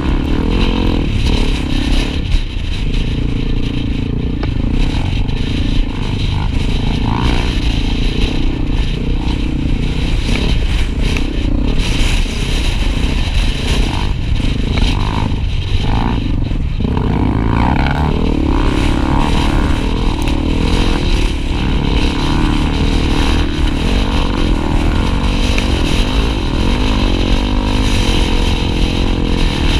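Honda XR250 Tornado single-cylinder trail motorcycles running, their engine note rising and falling as the riders throttle on and off.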